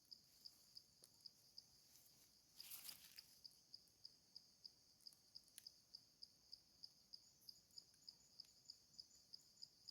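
Faint insect chirping: a regular high-pitched pulse about three times a second, with a brief soft rustle-like noise about three seconds in.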